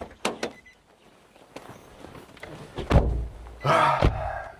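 A few light clicks, then a heavy thump about three seconds in and a sharp knock just after four seconds, with a brief voice sound between them.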